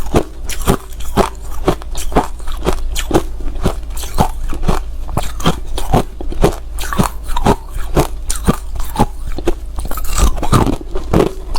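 Hard ice being chewed close to the microphone, crunching sharply between the teeth in a quick, uneven run of bites, about three crunches a second.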